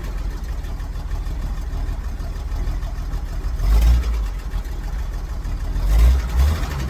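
1963 Jeep Gladiator's engine running at idle, swelling louder twice for a moment, about four seconds in and again about six seconds in.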